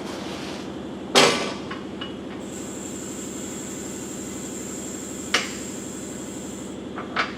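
Metal clanks as a shop engine is being lowered: one sharp clank about a second in, a lighter one past the middle and a faint tick near the end, with a thin high whine lasting a few seconds in between. A steady shop hum runs underneath.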